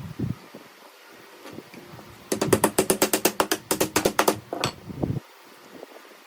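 A fast run of sharp mechanical clicks, about ten a second for some two seconds, then a few more before it stops, like a ratcheting tool or clamp being worked in the workshop.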